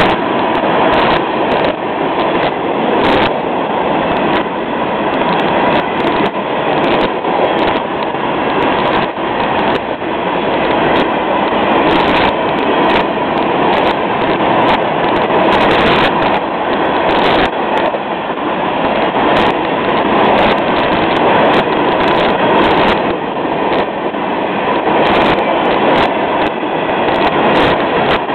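Freight cars of a long Florida East Coast train rolling past close by: a steady rush of steel wheels on rail, broken by frequent irregular clicks and clanks from wheels and couplers, with a faint steady whine underneath.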